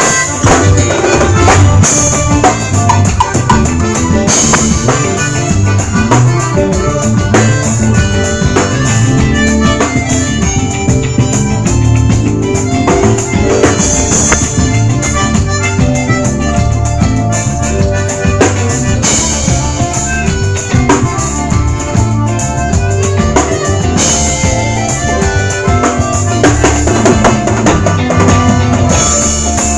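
A live band playing at a sound check, with a drum kit keeping a steady beat over a heavy low end and other instruments.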